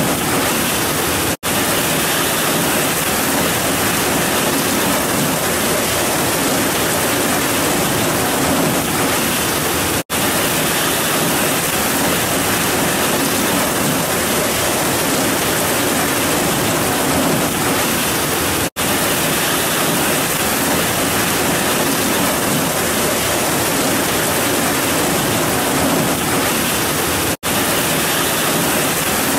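Heavy rain falling in a steady, dense hiss with no thunder. The sound drops out for an instant four times, at even spacing of about nine seconds.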